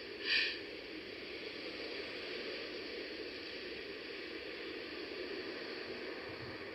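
Steady background hiss, with one brief, louder hissing burst just after the start.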